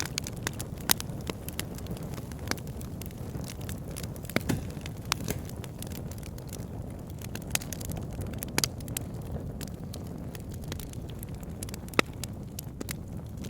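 Campfire burning: a steady low rush of flame with irregular sharp crackles and pops of burning wood, a few louder snaps among them.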